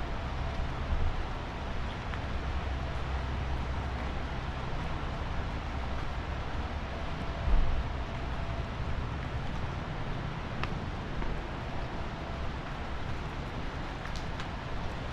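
Rainy city street ambience: a steady low rumble of traffic under an even hiss of rain, with one short low thump about seven and a half seconds in.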